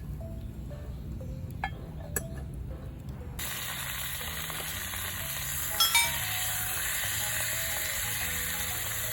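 Food starts sizzling in a hot skillet about a third of the way in, a steady frying hiss that carries on, with a couple of sharp clinks of metal near the middle. Background music plays throughout.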